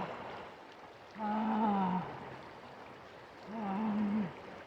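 A woman's voice holding two long wordless notes, about a second apart, each at a steady low pitch, over a continuous hiss of running water.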